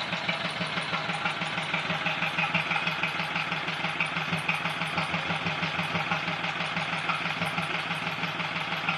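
Vintage Lister Petter stationary engine running steadily at an even, regular beat, running quite nicely after being brought back to life after about 50 years out of use.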